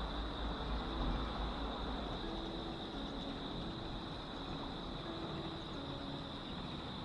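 Steady outdoor background noise: a low rumble like distant traffic, with a constant high hum over it.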